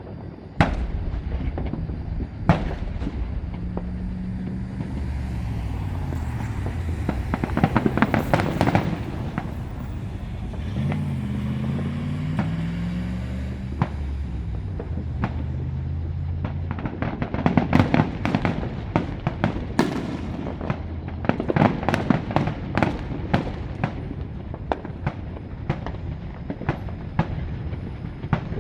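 Fireworks show going off: a run of sharp bangs and crackling bursts, with thick clusters of crackle about eight seconds in and again from about seventeen to twenty-three seconds in.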